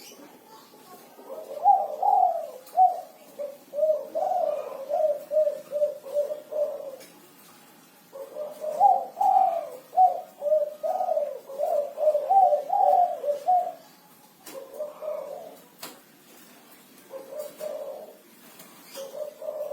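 Derkuku (spotted dove) cooing. Two long phrases of quick, repeated coos each last about six seconds, then three shorter bursts of coos follow near the end.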